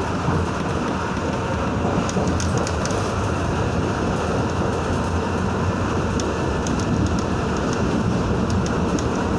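R62A subway train running, heard from inside the car: a steady rumble and hiss of wheels on rail with faint light clicks.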